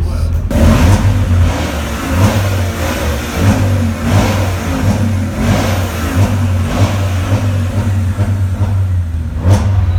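A car engine being revved over and over, its pitch rising and falling in short blips every second or two over a steady low drone.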